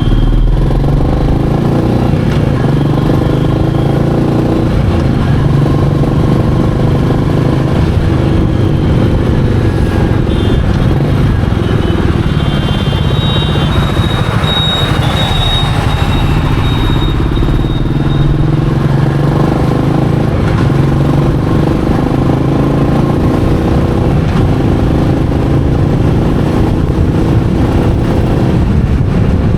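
Royal Enfield Meteor 350's single-cylinder engine running on the move, its low exhaust note rising and falling with the throttle.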